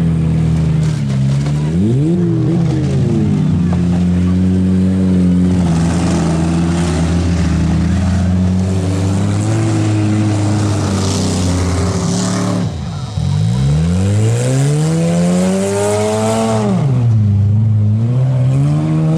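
Compact demolition-derby cars' engines running hard together, one engine briefly revving up early on and another revving up high in a long rising sweep in the second half before dropping back.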